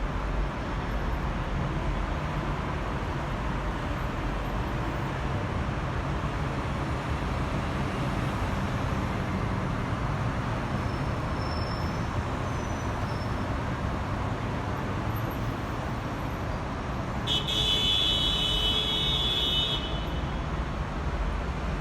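Steady, even rumble of outdoor background noise. About three-quarters of the way through, a high-pitched tone sounds for about two and a half seconds.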